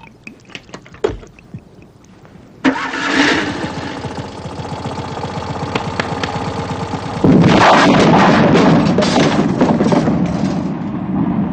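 A few knocks, then a car engine starts abruptly about two and a half seconds in and runs with a fast, even beat. It gets louder about seven seconds in, as if revved, and keeps running.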